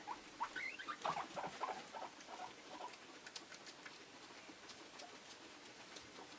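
Guinea pigs giving a quick run of short squeaks over the first couple of seconds, followed by scattered small clicks and taps.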